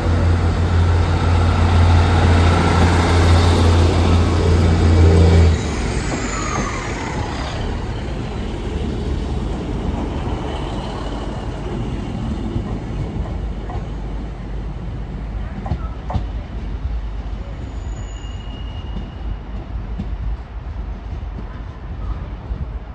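Diesel train's engine running with a loud, steady low hum that drops away suddenly about five seconds in, leaving a quieter rumble of the train.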